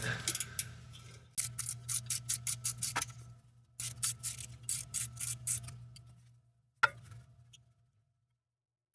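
A ratchet clicking quickly, about five clicks a second, in two runs, as it turns an exhaust manifold bolt, with a single louder click near the end. A low steady hum sits underneath.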